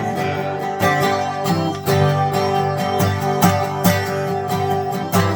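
Twelve-string acoustic guitar strumming chords of a slow folk song, with no singing.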